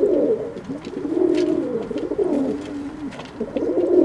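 Pigeons cooing, several low warbling coos overlapping with no break, with a few faint ticks among them.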